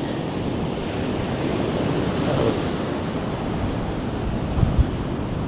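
Ocean surf washing up a sandy beach, with strong wind buffeting the microphone, a swell in the rush about two seconds in, and a few low thumps near the end.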